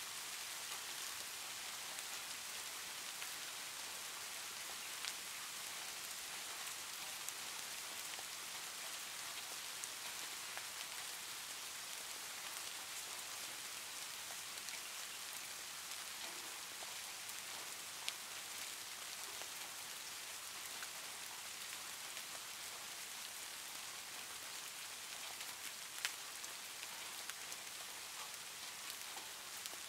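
Soft rain ambience: a steady, even hiss of falling rain with a few faint separate ticks.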